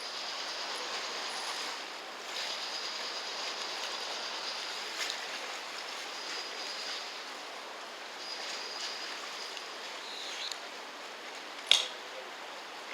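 Steady riverside ambience: a water-like wash with a faint high whine coming and going. A single sharp click comes near the end.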